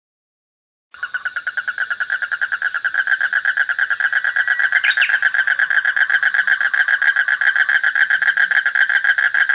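Tree frog calling, starting about a second in: a fast, continuous train of rapid croaking pulses.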